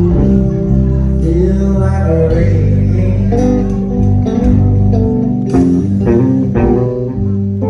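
Live blues band playing, with guitar to the fore over bass guitar.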